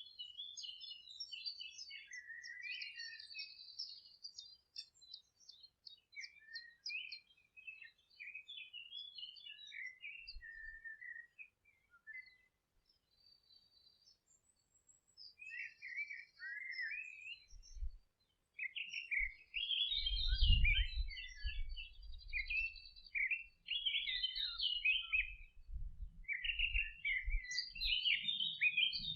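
Several songbirds twittering, with rapid short chirps and trills that thin out briefly around the middle. A low rumble comes in about two-thirds of the way through and again near the end.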